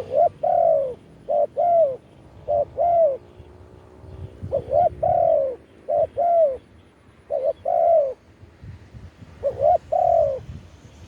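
Spotted dove cooing, the calling bird a decoy: seven repeated phrases, each a short note followed by a longer falling coo, spaced a second or two apart.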